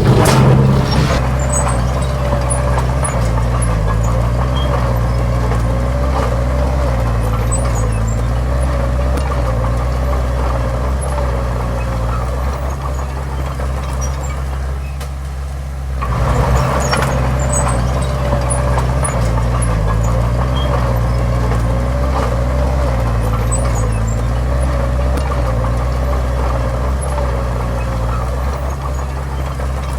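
Diesel engine of heavy earthmoving machinery running steadily under load with a deep drone and a wavering whine above it. It eases off about halfway through, then picks up again.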